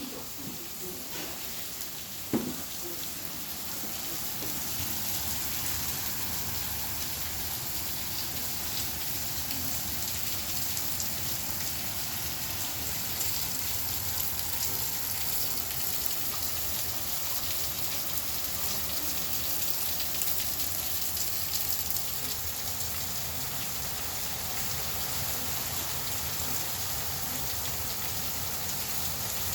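Heavy rain falling steadily during a severe thunderstorm, growing a little heavier over the first few seconds, with one sharp knock about two seconds in.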